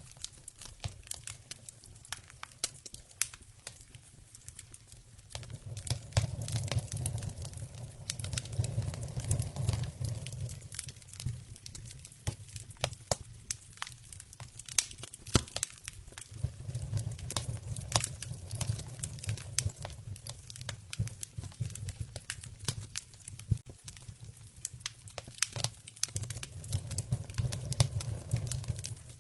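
Wood campfire crackling, with many irregular sharp snaps and pops. A low rumble swells in and fades out three times.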